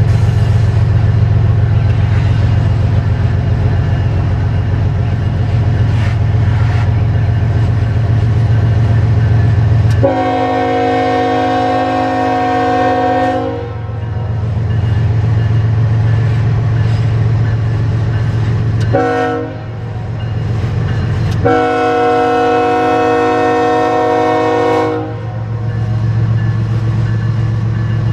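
A CSX diesel freight train rumbling steadily, its locomotive air horn sounding a multi-note chord: a long blast, a short one, then another long blast.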